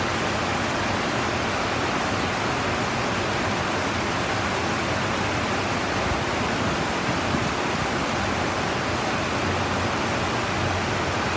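Heavy tropical rain pouring down in a steady, even rush.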